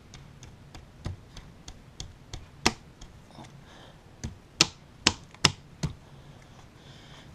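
Sharp plastic clicks and pops, about fifteen at irregular spacing, the loudest a cluster of four in the second half: a battery acid pack being pressed down onto the fill ports of a motorcycle battery, its sealed cells being punctured.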